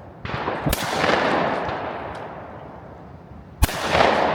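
Shotgun firing at a pair of clay targets: two sharp reports, one under a second in and one near the end, each trailing off in a long echo.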